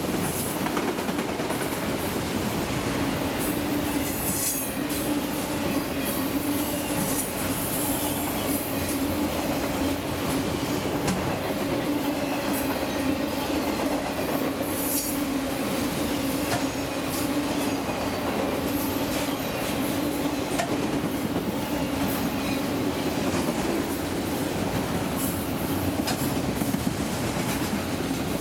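Freight train of autorack cars rolling steadily past, the wheels running on the rails in a continuous rumble with a steady hum. Brief high-pitched wheel squeals rise out of it a few times.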